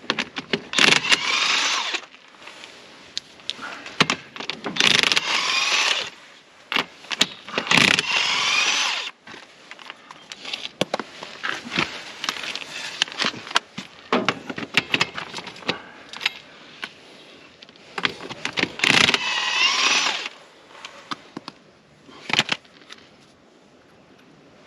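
Power impact wrench running in four short bursts, spinning lug nuts on a tractor wheel. Metal clinks and clanks of nuts and tools sound between the bursts.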